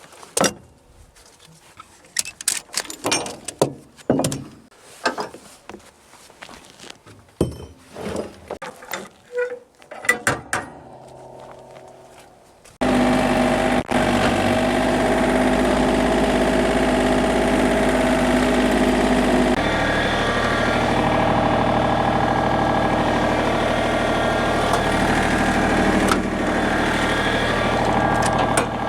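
Scattered clicks and clanks of metal gear being handled. About 13 seconds in, an engine abruptly comes in loud and runs steadily, its low note shifting about 20 seconds in.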